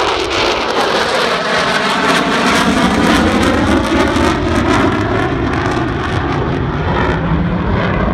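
F-16 fighter jet passing low, a loud steady jet roar with a sweeping, phasing whoosh as it goes by.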